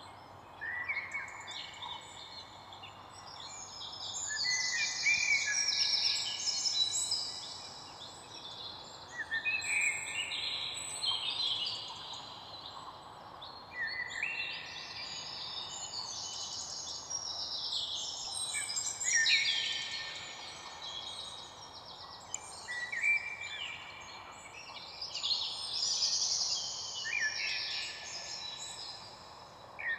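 A chorus of many songbirds singing at once, overlapping chirps and trilled phrases one after another, over a faint steady background hiss.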